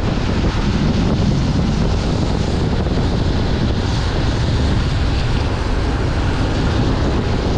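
Wind buffeting the microphone: a steady, loud, low rumbling noise with no clear tone or rhythm.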